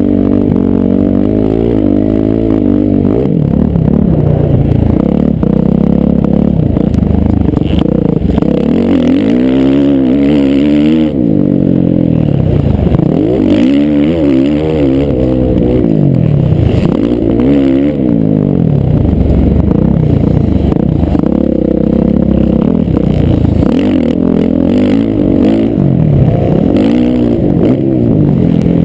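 Several motocross bikes' engines revving hard and dropping back again and again as they accelerate and shift, with more than one bike heard at once.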